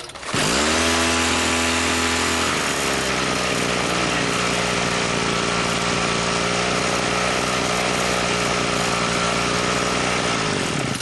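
A motorised tool starts abruptly, quickly rises to speed and runs steadily and loudly for about ten seconds, with a shift in its tone about two and a half seconds in, then stops abruptly.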